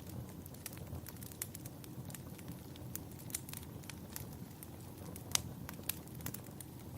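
Wood fire burning in a fireplace, crackling with frequent sharp snaps and pops over a steady low rumble; one loud pop a little after the midpoint.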